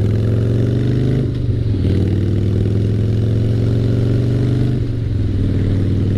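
Harley-Davidson Fat Boy's 88 cubic inch Twin Cam V-twin running under load through loud stage 1 drag pipes, its note climbing as the bike pulls. The note breaks twice, about a second and a half in and about five seconds in, as at gear changes.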